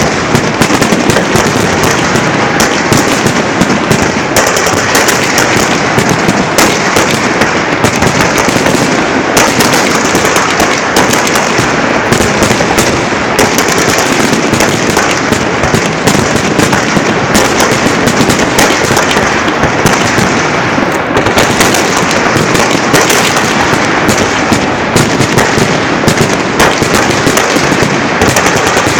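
Fireworks salute launchers firing a dense, continuous barrage, with the launches and bursts merging into unbroken crackling and banging.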